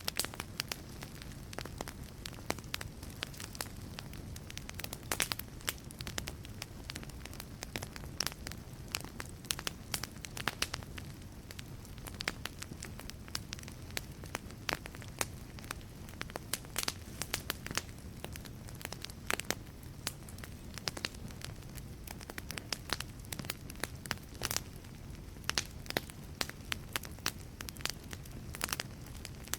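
Wood logs burning in a fireplace, crackling with frequent irregular sharp pops and snaps over a steady low rumble of the flames.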